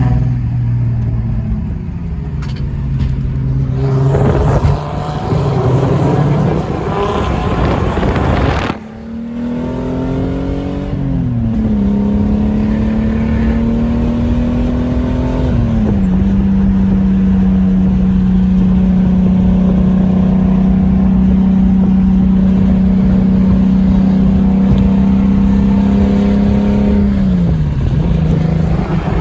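Car engine running and revving, its pitch rising and then dropping in steps a few times in the first half. It then holds a steady pitch for about eleven seconds before falling away near the end.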